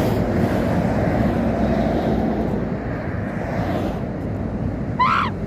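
Heavy truck running past with a steady low rumble. About five seconds in, a horn starts up, its pitch rising.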